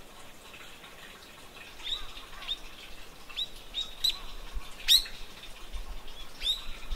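Birds chirping: a string of about seven short, sharp call notes starting about two seconds in, the loudest near five seconds in.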